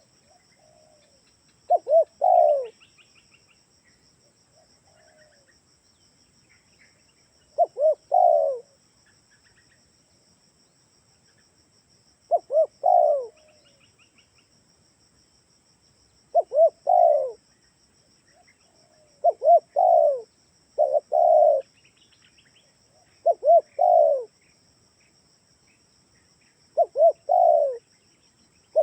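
Spotted dove (tekukur) cooing: about eight phrases, each two short coos followed by a longer one, repeated every few seconds. Faint chirps of small birds and a steady high insect-like whine sound behind.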